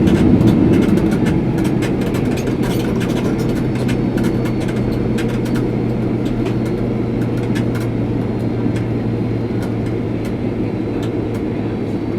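Boeing 767-300 cabin noise as the airliner rolls out after landing: a loud rumble that eases off over the first couple of seconds and then settles to a steady drone with a low hum. Frequent small rattles and knocks sound through it.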